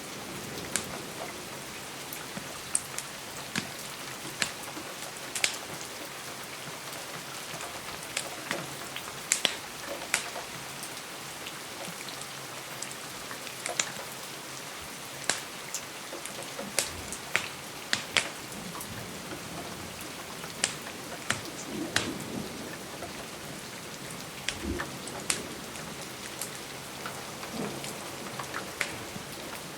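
Steady rain hissing, with scattered sharp pops and ticks throughout, from drops on the glass or a wood fire crackling.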